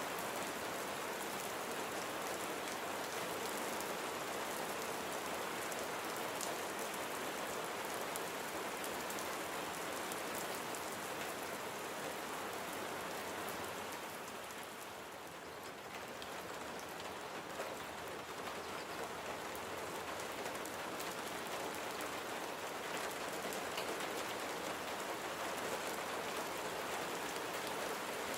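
Steady rain falling, a dense patter of drops on surfaces. It eases briefly about halfway through, then returns to full strength.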